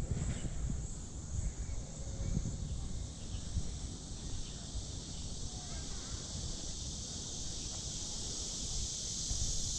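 Steady, high-pitched insect chorus that swells toward the end, over a low, uneven rumble.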